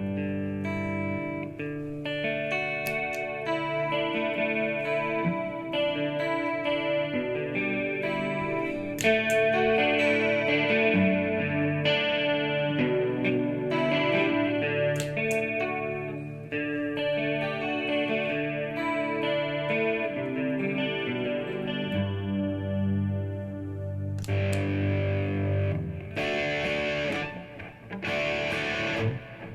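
Electric guitar played through a Boss MS-3 multi-effects unit and a Bluguitar Amp1 amplifier: single notes and chords ringing and overlapping, turning to brighter strummed chords about three quarters of the way through.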